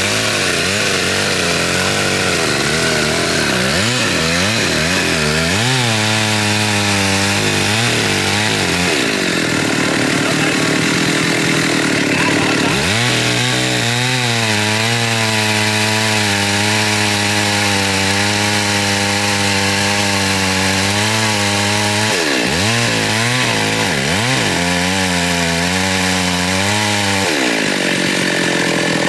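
Chainsaw running and cutting khaya (xà cừ) timber, its engine pitch rising and falling several times between long steady stretches.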